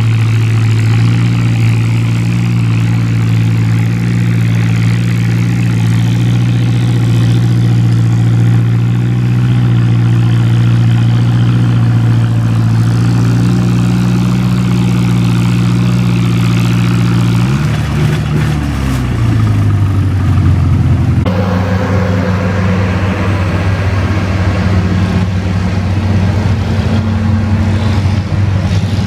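Antique farm tractor engine running loud and steady. About two-thirds of the way through, its pitch falls over a couple of seconds, and it then carries on at a lower, rougher note.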